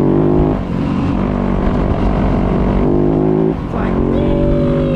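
Dirt bike engine running under throttle on a rocky trail. The throttle is chopped briefly twice, then revs climb and hold high near the end.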